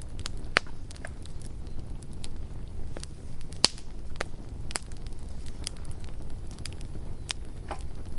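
Campfire burning: a steady low rumble of flames with irregular sharp crackles and pops of burning wood, one pop louder than the rest a little past the middle.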